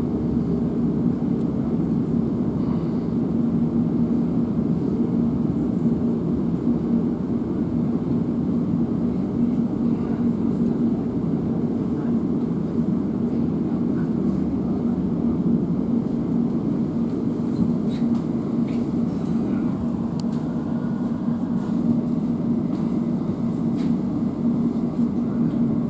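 Cabin noise of a Class 345 electric multiple unit on the move: a steady rumble with a constant low hum.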